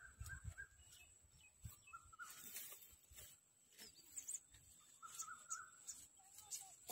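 Faint bird calls, a few short warbling phrases spread across the few seconds, over a very quiet field background with scattered faint clicks.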